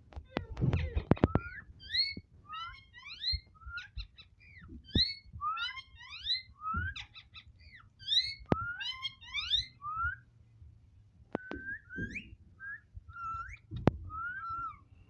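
Ringneck parrot chattering and whistling in a quick run of short rising and falling notes, with sharp clicks near the start and a few more later.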